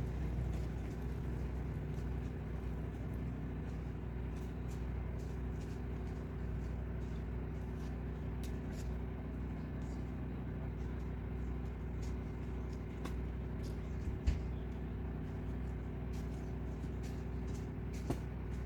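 Mini truck engine idling steadily, with faint light clicks over it and one dull knock about fourteen seconds in.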